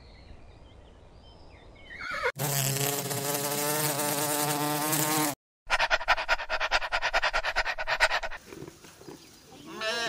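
A bee buzzing steadily for about three seconds, then, after a short break, a dog panting in fast, even breaths. Near the end a goat gives a short bleat.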